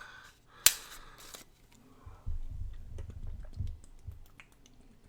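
A beer can cracked open with one sharp pop about half a second in and a brief fizz, then low, muffled gulping as the beer is chugged.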